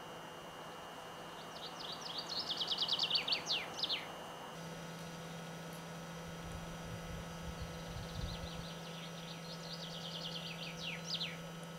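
A songbird singing two phrases, each a fast run of short, high, descending notes lasting about two seconds and ending in a few lower notes. Underneath is quiet outdoor background with a faint steady hum.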